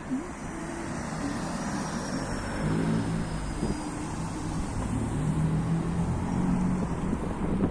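A car running on the road: a steady engine hum under broad road and tyre noise, the hum growing a little stronger a few seconds in.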